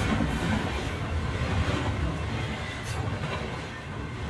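Freight train running on the rails: a steady rumble and rolling noise that slowly fades.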